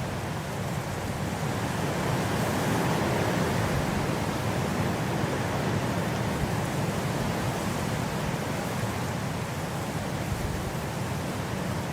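Blizzard wind blowing as a steady rushing hiss over a low rumble, swelling a little a few seconds in and easing again.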